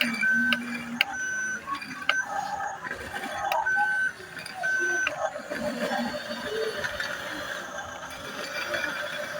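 Remote-control toy bulldozer making short electronic beeps, about half a dozen spread irregularly, among clicks and the whirr of its small geared motor.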